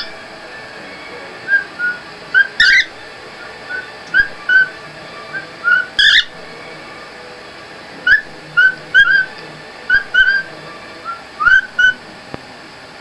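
A pet bird calling in short whistled chirps, one to three at a time in quick clusters, with three louder, harsher calls mixed in.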